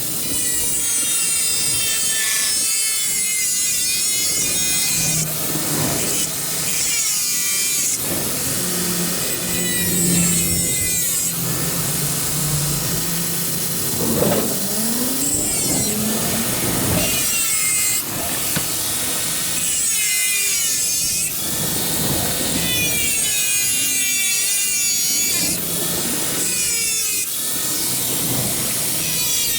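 A power tool cutting sheet steel for repair patches. It runs continuously, and its whine dips and recovers in pitch again and again as the tool bites into the metal.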